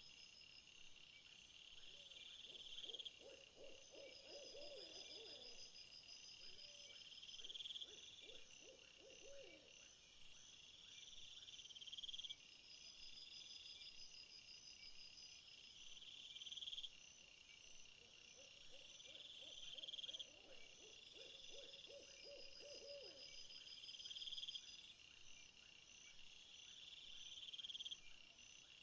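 Faint insect chorus: high trills that swell and cut off suddenly about every four and a half seconds, over a steady higher pulsing trill. Lower quavering animal calls come in twice, early and past the middle.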